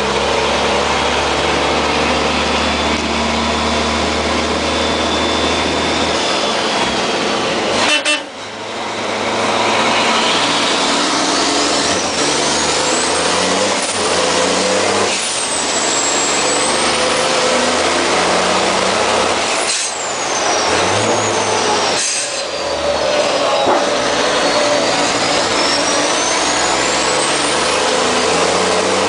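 MAN racing truck's turbodiesel engine pulling hard under full throttle, heard from inside the cab. Its pitch steps through gear changes, marked by sharp breaks with short air hisses, and a high whistle rises and falls over the engine.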